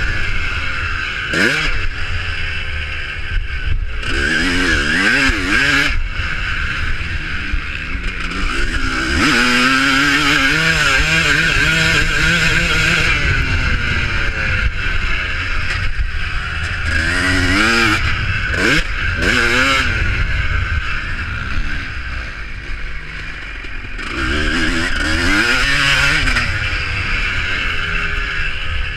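Motocross motorcycles racing past, their engines revving up and falling back again and again as the riders open and close the throttle, several bikes overlapping.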